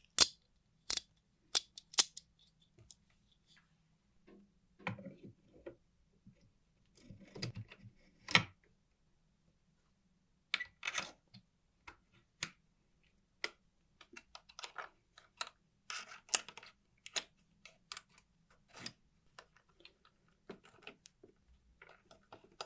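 Small parts being handled at a workbench: scattered sharp clicks and taps, with a few short scraping or rubbing sounds between them.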